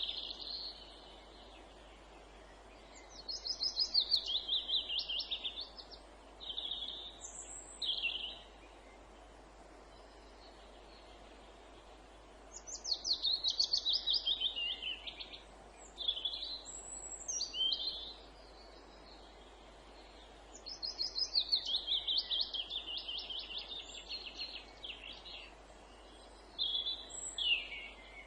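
Songbirds singing in woodland: three fast, high, downward-sloping trilled phrases of two to three seconds each, repeated every eight seconds or so, with shorter calls between them, over a faint steady background hiss.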